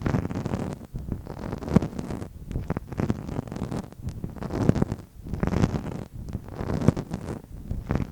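Close-miked ASMR handling: irregular soft thuds and rubbing with a few sharper taps.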